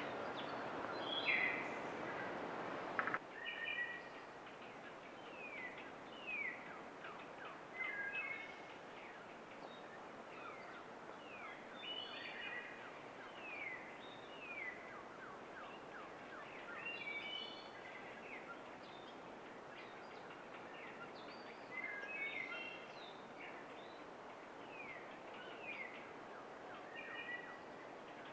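Songbirds calling in woodland: many short chirps, often falling in pitch, over a faint steady background. For the first three seconds a louder rushing noise lies underneath, then cuts off suddenly.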